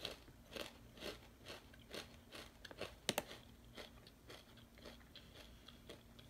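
A mouthful of crunchy plantain chips being chewed close to the microphone: a crisp crunch about twice a second, growing fainter toward the end.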